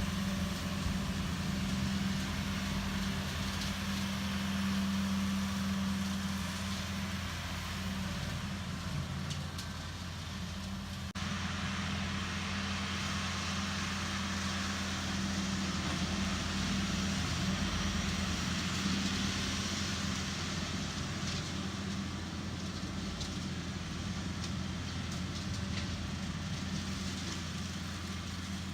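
Kubota MX5800 tractor's diesel engine running steadily, a constant low drone, with a cut to another take of it about eleven seconds in.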